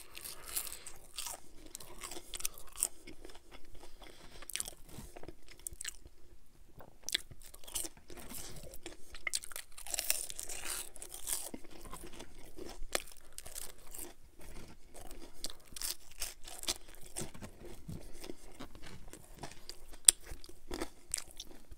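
A person chewing thick-cut Burger King french fries close to the microphone: a steady run of wet mouth clicks and chewing noises, with one sharper click about twenty seconds in.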